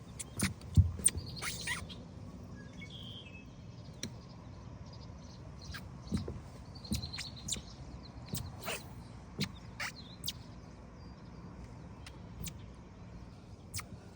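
Quiet outdoor ambience with a few short bird chirps and scattered sharp clicks and knocks, likely from fishing tackle being handled. The loudest knock comes about a second in.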